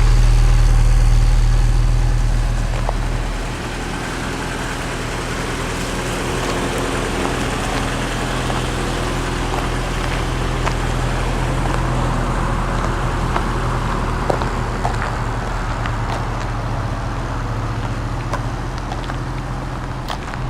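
Bedford CF van's engine running steadily with a heavy low hum, which eases back a little about three seconds in.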